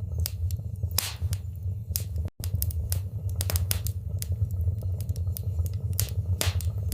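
Wood fire burning in a fireplace: irregular sharp crackles and pops over a steady low rumble of the flames. The sound cuts out for an instant about two and a half seconds in.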